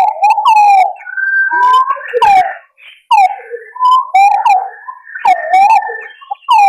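Green pigeons (punai) calling: a run of whistled, bending notes that swoop up and down, with several calls overlapping and short gaps between phrases.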